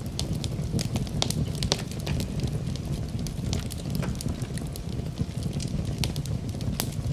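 Wood fire burning in a fireplace: many irregular sharp crackles and pops of burning wood over a steady low rumble of the flames.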